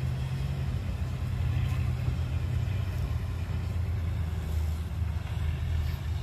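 Heavy diesel engine of earthmoving machinery running steadily, a low rumble whose pitch shifts slightly about three seconds in.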